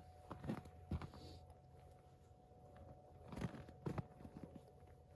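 A few faint, scattered taps and knocks, a pair of them about a second in and another pair a little past three seconds, over a quiet background with a faint steady hum.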